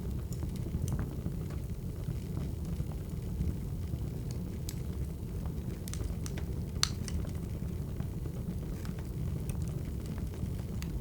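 Wood fire crackling: a steady low rumble with scattered sharp pops and snaps, the loudest pop about seven seconds in.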